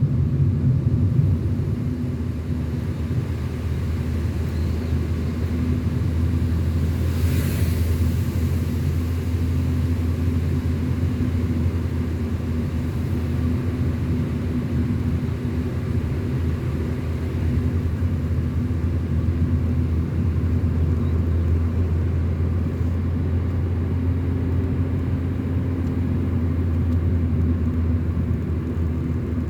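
Car being driven at steady speed: a constant low rumble of engine and road noise with a steady hum, and a brief hiss about seven seconds in.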